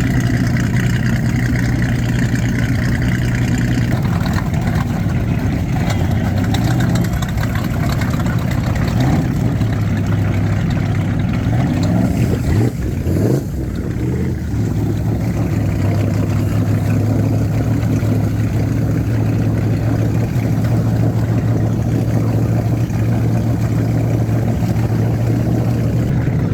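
Motorboat engine running steadily at low speed. Around the middle its pitch rises and falls as the throttle changes, then it settles back to a steady run.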